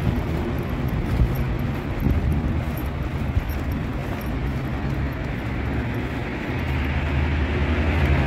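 Steady low hum and rumble of a U-Bahn light-rail train standing at the platform, its onboard equipment running; the hum shifts and grows stronger about two-thirds of the way through.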